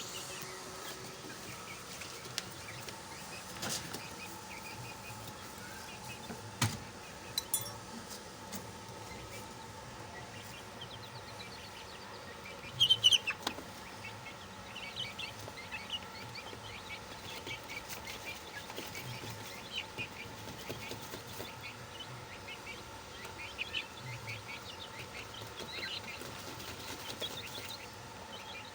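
Chicken chicks peeping: many short, high chirps scattered throughout. A few sharp clicks, and a brief louder sound about halfway through.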